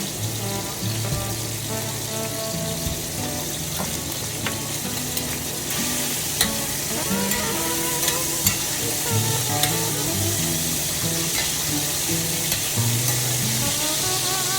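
Food sizzling as it fries in a wok, with a spatula clicking and scraping against the pan as it is stirred. The sizzle gets louder about six seconds in.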